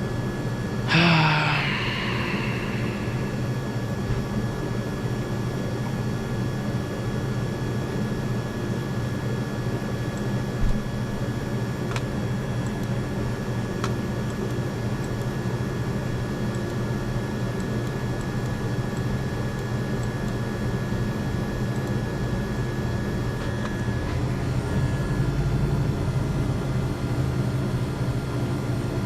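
A steady mechanical hum with a few constant tones. About a second in, a short squeal falls in pitch, and a single sharp click comes near the middle.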